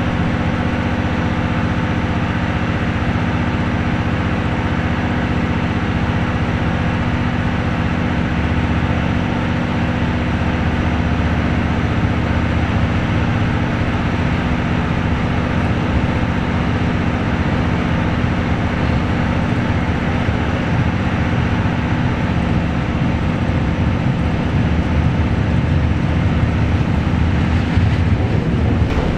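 Diesel-hauled train of 12-series passenger coaches: a steady rumble with a constant low engine hum, growing slightly louder near the end.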